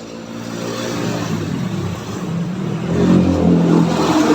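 A motor vehicle engine running and picking up speed, growing louder from about three seconds in.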